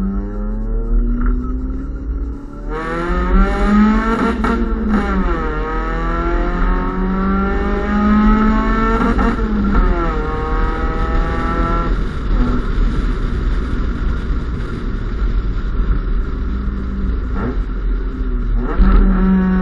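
Honda Civic's D15B2 four-cylinder engine through an aftermarket Invidia exhaust, revving up and falling back several times, with a long climb in pitch in the middle and a steadier drone afterwards.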